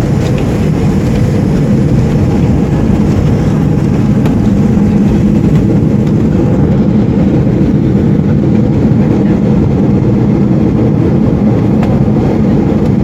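Steady low roar of an airliner's engines and airflow heard inside the passenger cabin during landing.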